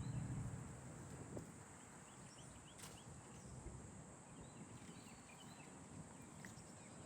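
Faint, scattered short bird chirps over a steady high background hiss.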